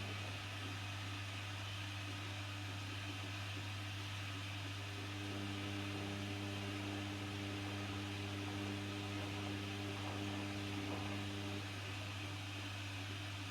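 Washing machine running through a wash: a steady low hum with hiss, and a motor tone that comes in about five seconds in and stops shortly before the end.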